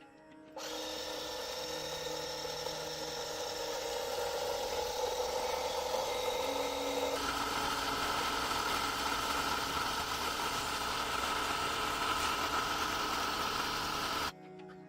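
A power tool running steadily on metal, with a sudden shift to a higher pitch about seven seconds in, cutting off abruptly near the end.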